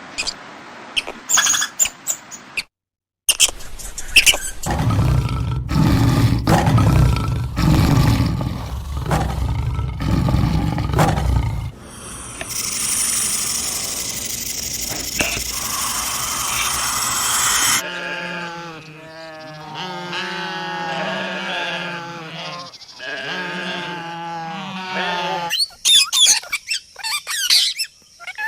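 A run of animal sounds: a loud, low, rumbling big-cat roar lasting several seconds, then a high hissing stretch, then a repeated pitched animal call, with scattered clicks at the start and near the end.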